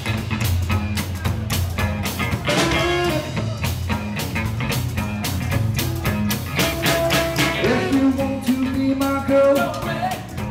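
Live swing band playing a song with a steady drum beat. It is heard from close to the band rather than through the PA speakers, so the mix is thin and unbalanced.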